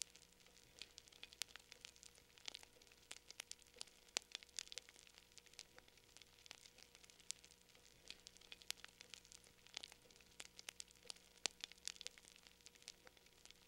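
Wood fire crackling in a fireplace: irregular sharp pops and snaps, several a second, over a faint hiss.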